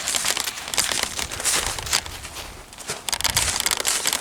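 Footsteps crunching and rustling through dry fallen leaves, an uneven series of crunches with a brief lull about two and a half seconds in.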